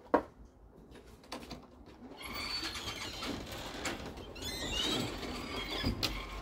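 Birds chirping around the loft, with one sharp knock just after the start. From about two seconds in the sound grows fuller, with many short high chirps.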